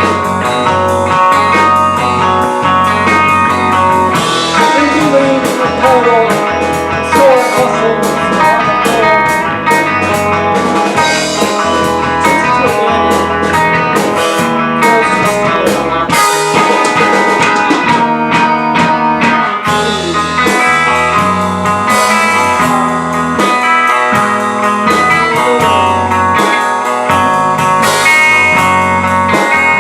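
A rock band playing live: guitars over a drum kit.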